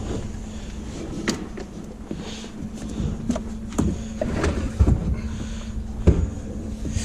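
Scattered knocks and clunks, about six over several seconds, as a heavy salvaged bench is shifted and bent into position, over a steady low hum.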